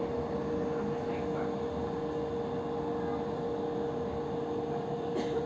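Passenger train running, heard from inside the carriage: a steady hum with a constant mid-pitched tone over even running noise.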